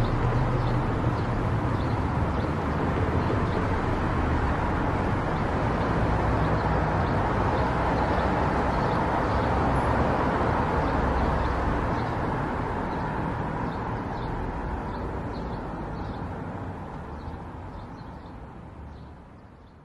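Steady road noise and engine hum from a car driving on a highway, fading out over the last several seconds.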